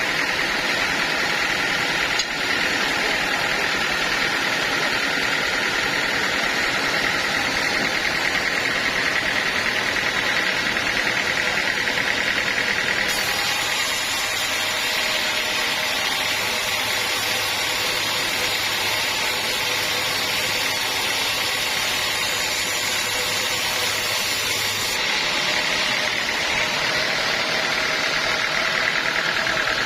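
Sawmill machinery running steadily while sawing teak, a constant mechanical drone with a high saw whine. The tone shifts about 13 seconds in and shifts back near 25 seconds.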